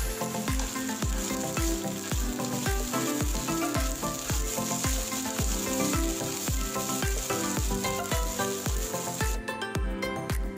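Onion, garlic and lemongrass sizzling in hot oil in a nonstick frying pan as they are stirred, under background music with a steady beat. The sizzle cuts off about nine seconds in, leaving the music.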